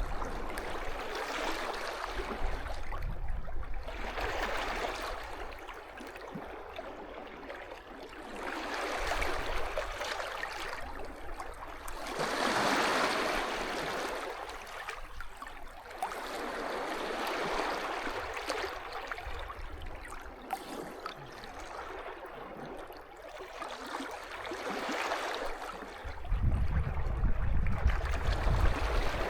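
Sea waves washing onto a beach: a hissing surge that swells and falls back every few seconds, loudest about halfway through. Low wind buffeting on the microphone near the end.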